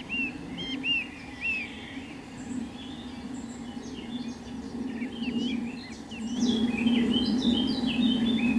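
Small birds chirping: three short arched chirps about half a second apart at the start, then busier overlapping chirps from several birds in the second half. A steady low hum runs underneath and gets louder near the end.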